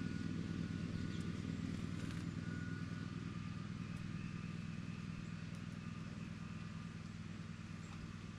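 A motor vehicle's engine running with a low, steady hum that slowly fades, with faint bird chirps above it.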